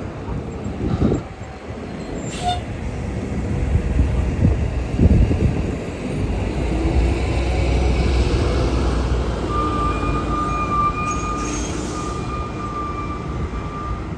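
A city transit bus passing: engine rumble and road noise building to a peak, then a steady high whine that sets in over the running engine near the end.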